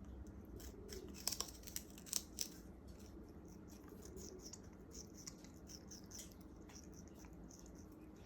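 African grey parrot's beak biting and tearing at sugarcane, with a few sharp crunches a little after a second in, then softer scratchy chewing.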